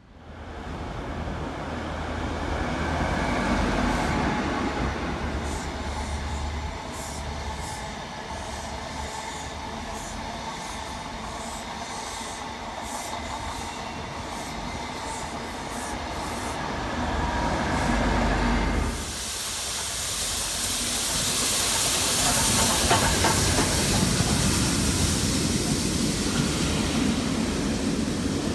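An electric express train running through on the fast lines, its wheels clicking regularly over the rail joints. About nineteen seconds in, a cut to a rake of Pullman coaches rolling past close by, with a louder, high-pitched hiss.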